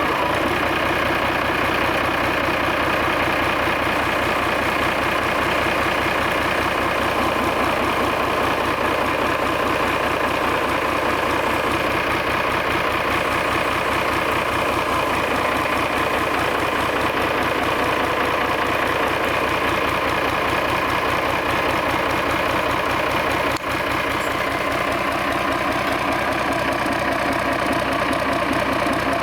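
Yanmar 6CH-STR six-cylinder marine diesel engine running steadily on a test run, with an even, rapid firing beat. Late on, the sound drops out for a moment.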